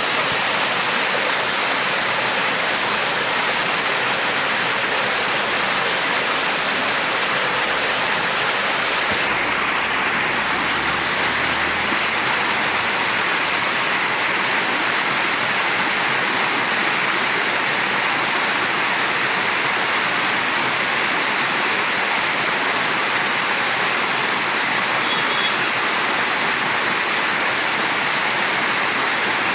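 Mountain stream rushing, a steady, unbroken sound of flowing water.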